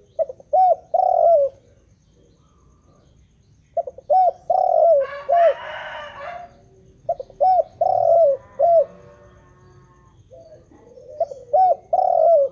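Spotted dove (tekukur) cooing in repeated phrases of a few low, curved notes, four phrases about every three and a half seconds. A short hissing noise comes in the middle of the second phrase.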